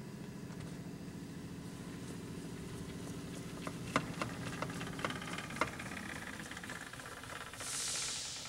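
Hardinge HLV-H-EM toolroom lathe running with a steady low hum during a bed calibration. The hum fades about two thirds of the way through. Several sharp clicks come around the middle, and a short hiss comes near the end.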